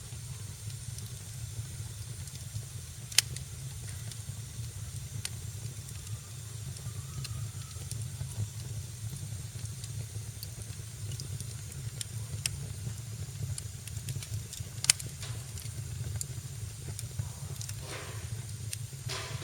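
Wood fire burning in a fireplace: a steady low rumble and hiss with scattered small crackles, and two sharp pops, one about three seconds in and one about fifteen seconds in.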